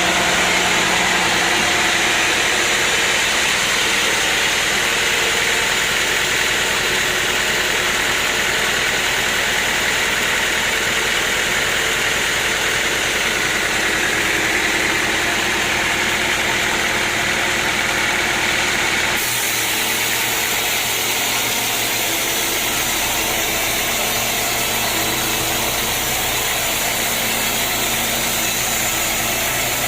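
Sawmill machinery running steadily, a loud engine-like drone with several held tones over broad noise. The sound changes abruptly about two-thirds of the way through.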